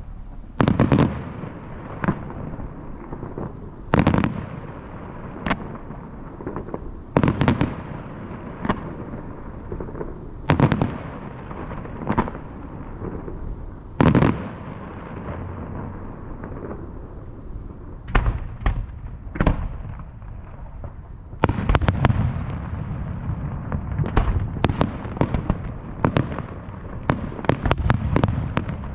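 Aerial fireworks shells bursting with sharp booms and crackle, one every second or two at first, then about two-thirds of the way in a dense rapid barrage of bursts over a continuous rumble.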